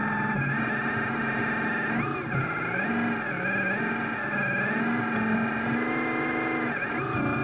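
Small electric motors of radio-controlled construction machines whining, the pitch rising and falling with the throttle and swooping up sharply twice.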